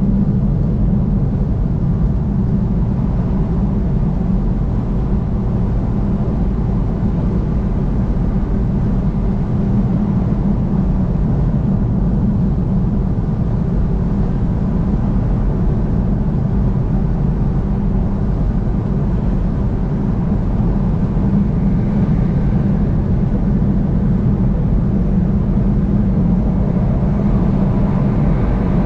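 Steady road and engine noise of a vehicle travelling on the interstate highway, a continuous low drone with no sudden events.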